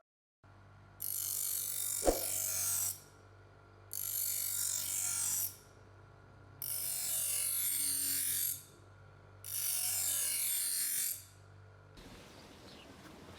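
Steel blade drawn four times against an abrasive, each grinding stroke about two seconds long with short pauses between, over a low steady hum, and one sharp click about two seconds in.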